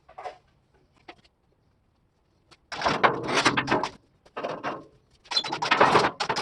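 A heavy steel flatbed frame being shoved along on wheels that include a flat tire, scraping and rattling in three rough bursts after a couple of light knocks.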